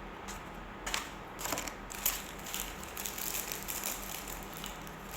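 Eating at a table: a string of small clicks, crinkles and crunches from handling and biting fried food and its wrappers, the sharpest about a second and two seconds in, over a low steady hum.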